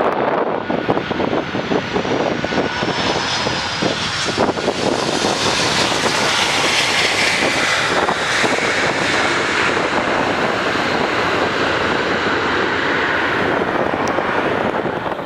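Boeing 747-400 jet engines on landing approach, passing close: a steady, loud jet engine noise. A faint falling whine sounds over the first few seconds, and the sound is strongest around the middle as the aircraft goes by.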